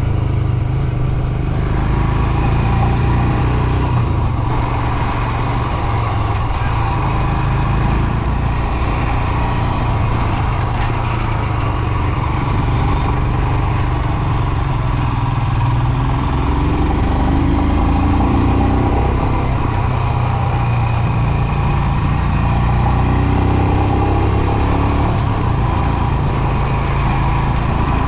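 Royal Enfield Himalayan's 411 cc air-cooled single-cylinder engine running steadily while the motorcycle is ridden, its pitch rising and falling a few times in the second half as the revs change.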